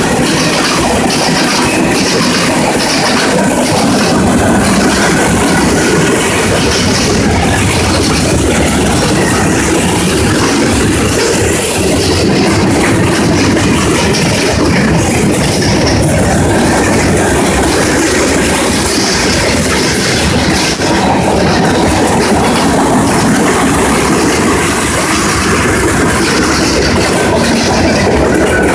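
Freight cars (tank cars, then boxcars) rolling past at close range: a loud, steady rumble of steel wheels on rail with a regular clicking from the wheels.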